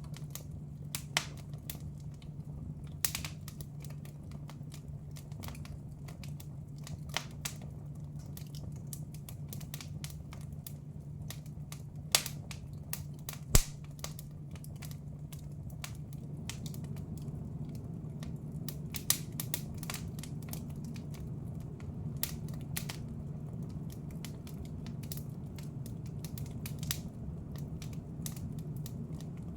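Wood fire in a fireplace crackling and popping, with irregular sharp pops, two louder ones about halfway through, over a steady low hum.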